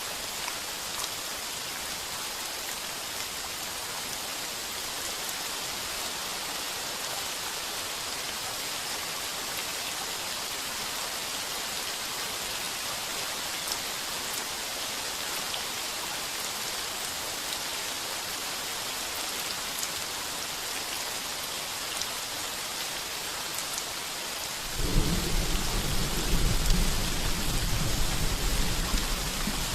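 Heavy rain pounding steadily on a tin roof, a dense even hiss with faint drop ticks. Near the end a loud, deep rumble of thunder sets in suddenly.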